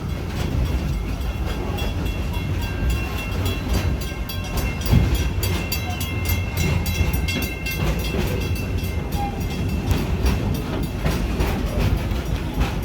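Park tour train running along its track, heard from aboard: a steady low rumble with rapid clicking of wheels over the rails, and a thin high squeal for a few seconds in the middle.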